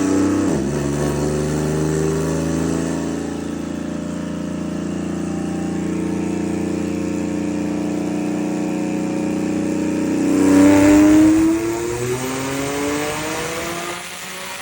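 Twin-turbo VR30 3.0-litre V6 in a 350Z making a full-throttle dyno pull. After a quick gear change near the start, the engine note climbs steadily for about ten seconds, peaks loudest with a burst of rushing air, then drops away as the throttle closes.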